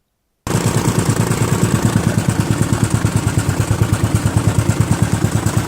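Jumping-jack tamping rammer (a 'hopper') running while compacting soil, its engine beating out a rapid, even pounding of about ten thumps a second. It starts abruptly about half a second in.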